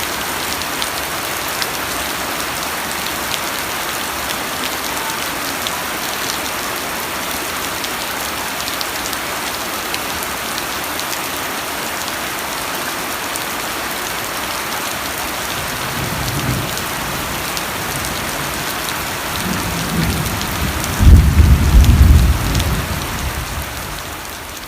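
Steady heavy rain falling in an even hiss. About two-thirds of the way through, a low rumble of thunder builds and peaks near the end.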